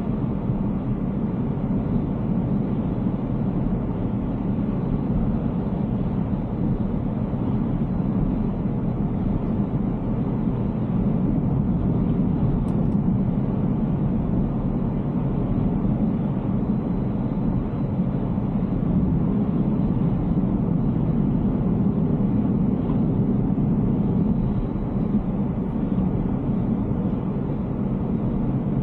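Steady rumble of road and tyre noise from a Tesla Cybertruck driving on wet pavement.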